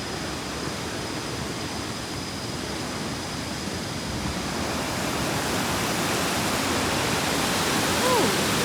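Waterfall rushing in a steady roar of water, swelling a little louder over the second half. A brief falling tone sounds near the end.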